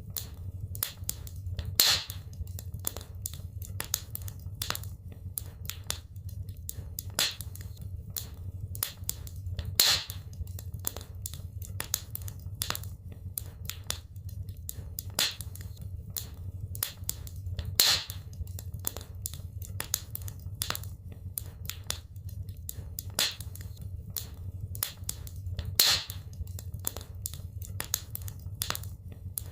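Wood fire burning in a fireplace, crackling with a dense run of small snaps and a louder pop about every eight seconds, over a steady low rumble.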